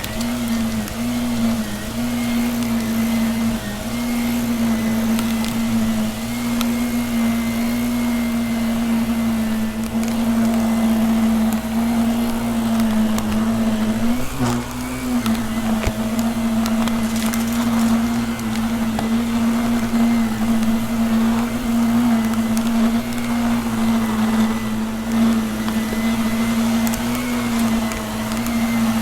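Vacuum cleaner running steadily with a motor hum that wavers slightly in pitch, with crackling as crunchy dirt and debris is sucked up.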